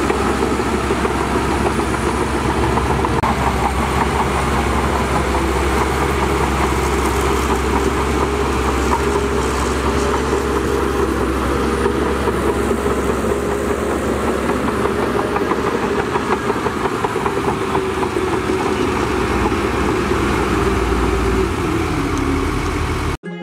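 Diesel engines of heavy earthmoving machinery running steadily, with a dense rattling clatter over a deep low hum. The sound cuts off suddenly near the end.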